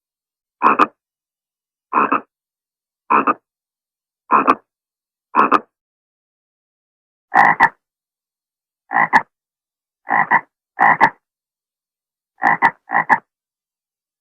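A frog croaking: a series of short, separate croaks about one a second, with a pause near the middle and a few close pairs near the end.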